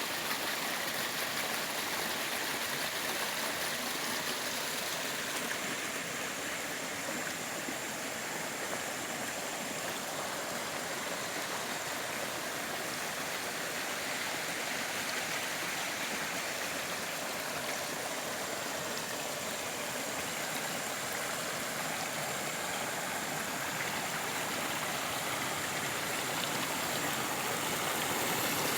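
Stream water flowing, a steady rush of running water.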